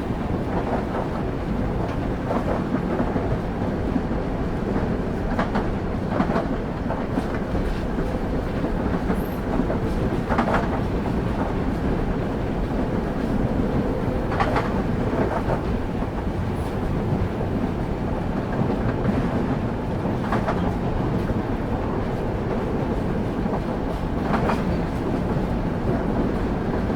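Railway carriage wheels rolling on the rails: a steady low rumble with a sharp clack every few seconds as the wheels cross rail joints, heard from inside the moving train.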